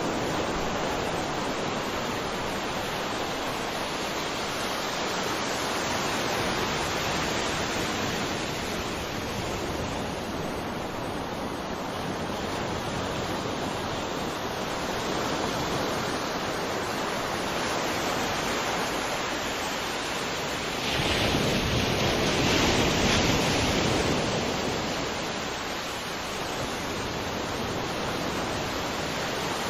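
Ocean surf: a steady rush of waves washing on a shore, swelling and easing, with one louder wave surging about two-thirds of the way through.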